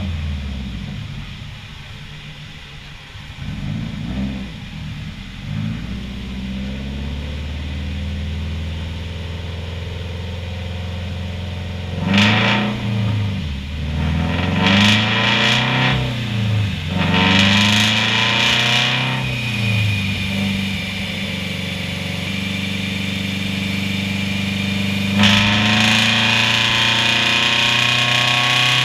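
Turbocharged Scion FR-S's 2.0-litre flat-four engine idling, then revved in a series of quick blips that rise and fall, starting about twelve seconds in. Near the end it holds a steady, higher engine speed.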